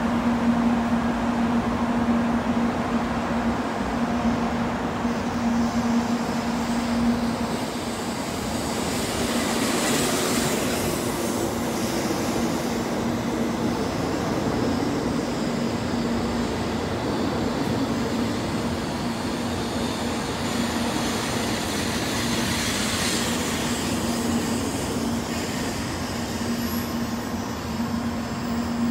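Shinkansen train running: a steady rumble under a constant low hum, with hissy swells about ten seconds in and again a little past twenty seconds.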